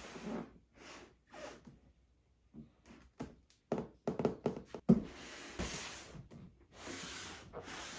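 Hands handling toy packaging: bursts of plastic and cardboard rustling, with a quick run of small clicks and knocks in the middle.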